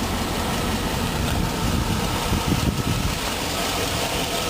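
2003 GMC Sierra 2500 HD pickup's engine idling steadily.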